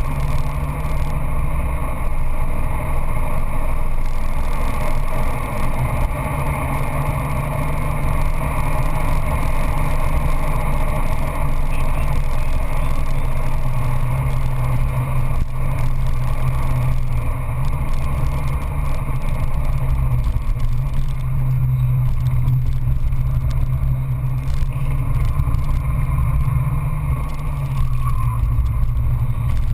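Peugeot 206 GTI S16's 2.0-litre four-cylinder engine running hard at speed, heard from inside the cabin. Its note is steady, with only small shifts in pitch, over a constant rush of road and wind noise.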